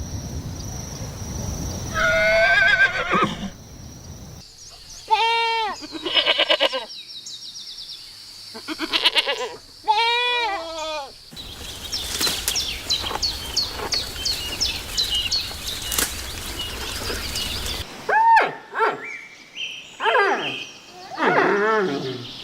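Farm animal calls from several short spliced clips. First come repeated arching pitched calls, typical of goats bleating, then a stretch of rapid sharp high ticks or chirps, then more calls near the end.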